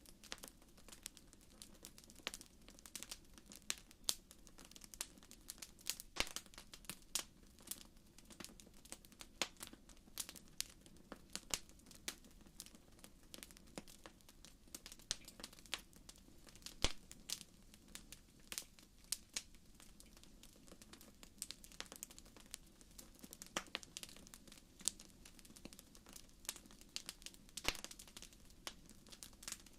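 Wood fire burning in a fireplace: a steady run of irregular sharp crackles and pops over a soft low hiss.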